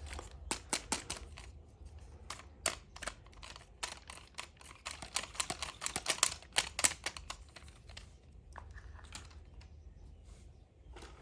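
Sharp, irregular clicks and taps of small plastic toy pieces being handled and set down, in quick clusters about a second in and again midway, sparser near the end.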